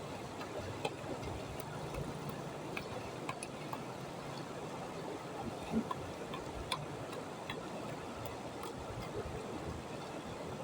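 Stream water rushing steadily, with a few faint clicks scattered through it.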